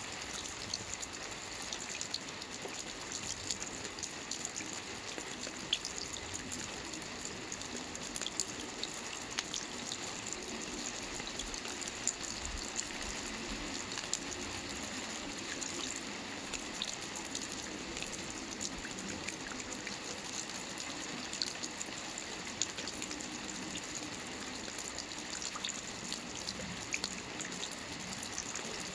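Steady soft rain falling on a roof: an even hiss of rainfall with many individual drops ticking through it.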